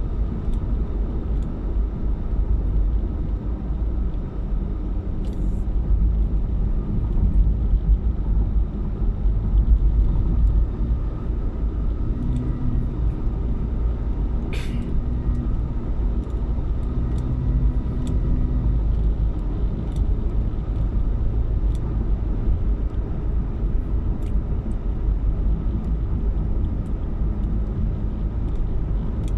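A car driving, with a steady low rumble of road and engine noise, and a single sharp click about halfway through.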